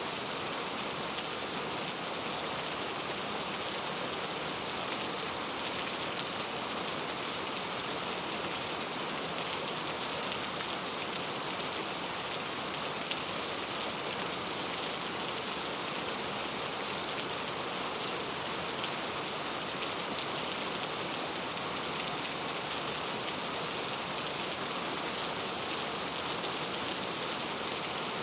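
Steady rainfall, an even hiss of drops with faint fine patter, unchanging throughout.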